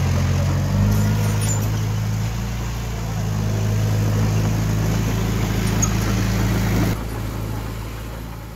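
Diesel engine of heavy earthmoving machinery running steadily with a low hum, its pitch shifting slightly about one and two seconds in, then easing off about seven seconds in and fading.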